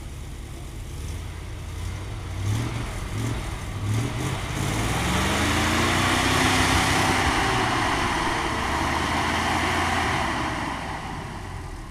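ZIL-131 army truck's V8 petrol engine revving in a few short blips, then pulling under load with its note rising, loudest in the middle and easing off near the end.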